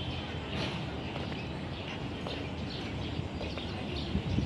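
Small birds chirping in short, repeated high calls over a steady low outdoor rumble.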